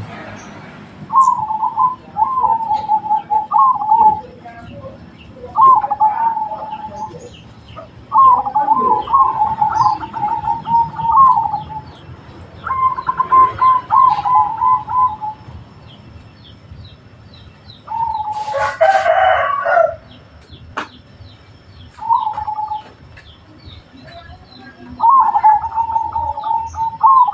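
Zebra dove (perkutut) singing its cooing song: about seven phrases of rapid trilled coos, each one to three seconds long, separated by short pauses. About two-thirds of the way through, a louder, harsher call breaks in.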